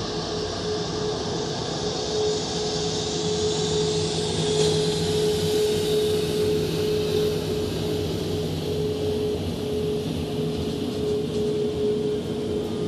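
Jet airliner engines running at taxi power: a steady whine with a single held tone over a broad hiss that swells about four to six seconds in.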